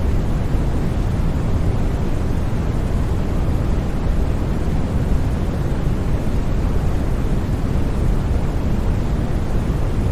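Steady synthetic sleep noise sold as white noise, an even, unbroken rush. Most of its energy is in the low end, so it sounds deeper than flat white noise.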